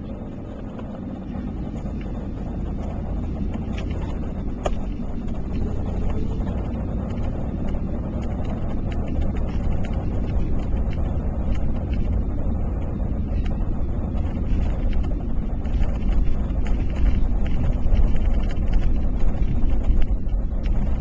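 Steady low rumble of a car driving, heard from inside the cabin, gradually getting louder.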